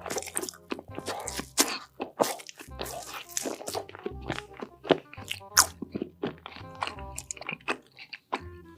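Loud, crisp crunching bites and chewing of food, many in a row, over background music with a steady bass beat.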